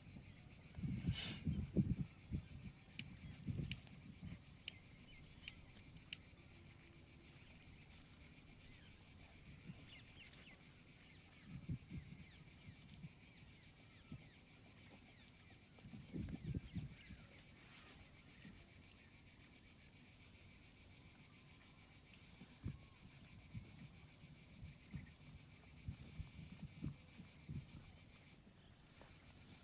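Steady high-pitched insect chorus, with a brief break near the end, and scattered low rustling thumps now and then.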